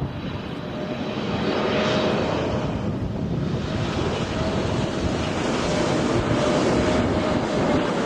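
Jet airliner landing, its engine noise building over the first couple of seconds into a loud, steady rumble with a steady whine running through it.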